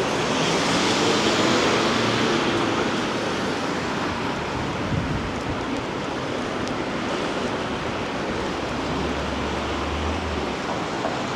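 Steady hiss of rain and wet street noise, swelling louder over the first three seconds and then settling back to an even wash.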